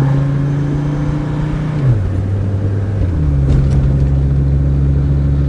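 Mercedes 300D diesel engine pulling the car along, its note dropping in two steps as the automatic gearbox upshifts, then running steadily at the lower revs. There is no thud from the driveshaft support bearing on the shift.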